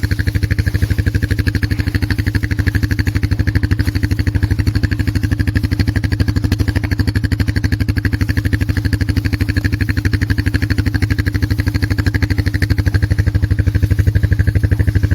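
Polaris Magnum 425 ATV's single-cylinder four-stroke engine running at a steady speed, with an even pulsing exhaust note.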